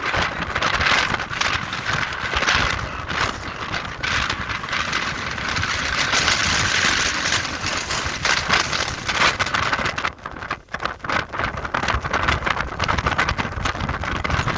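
Strong wind buffeting the microphone, a loud gusting rush that drops briefly about ten seconds in before picking up again.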